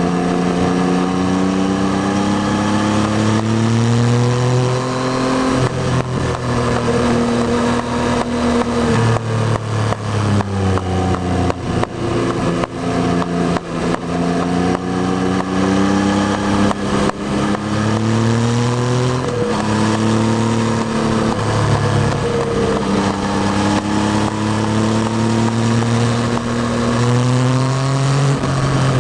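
Yamaha Tracer 9's 890 cc CP3 three-cylinder engine under way, accelerating through the gears: the engine note climbs for a few seconds, drops sharply at each upshift, then climbs again, several times over.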